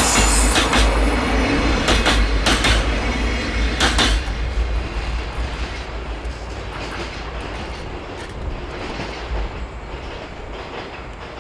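Freight train passing close by on the track, its wheels clacking over rail joints several times, then the rumble fading away from about four seconds in as the train recedes.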